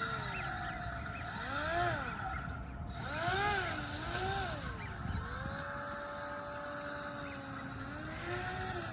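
Brushless RC airplane motor and air propeller of a scratch-built RC airboat, running on a 3-cell LiPo, whining up and down in pitch as the throttle is opened and closed, then held at a steady pitch for a couple of seconds in the middle before another rise and fall near the end.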